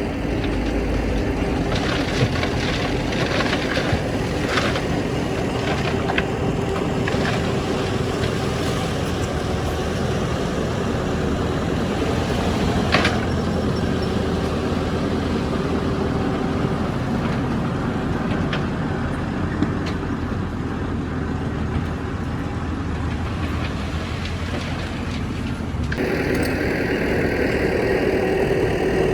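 Heavy diesel construction machinery running steadily, with occasional sharp metallic knocks and clanks. The engine sound changes abruptly near the end.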